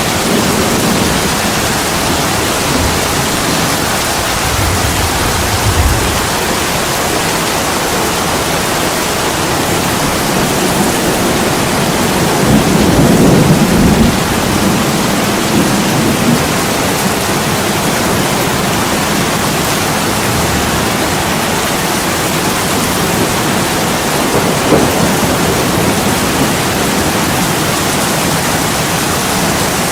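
Heavy rain pouring steadily onto an attic window. Deep low rumbles swell through it about five seconds in and again, loudest, around the middle.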